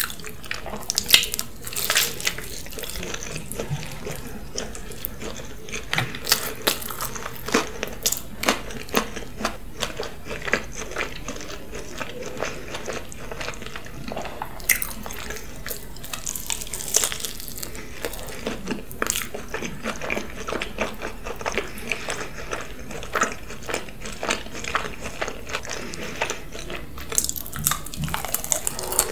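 Close-miked chewing and wet mouth sounds of someone eating pizza: an irregular run of short smacks and clicks.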